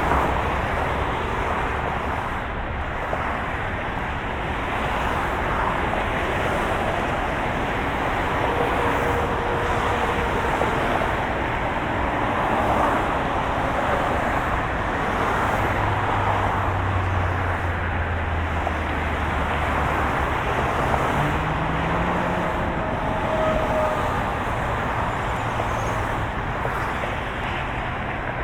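Steady road noise of a moving car, an even hum and rush of tyres and engine, with a low engine tone growing stronger for a few seconds a little past the middle.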